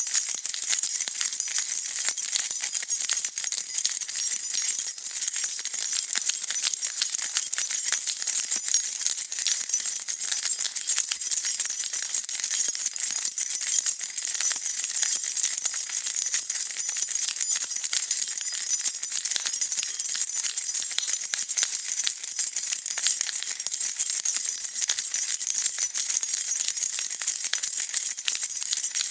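A bunch of metal keys on a key ring being shaken, jingling continuously as a dense, steady clatter of small bright clinks.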